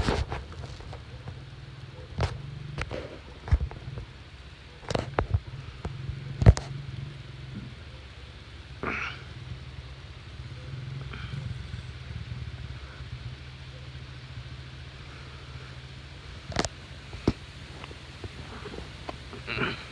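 Dirt bike engine running at a distance, a steady low hum. Several sharp knocks break in at uneven intervals, the loudest about six and a half seconds in.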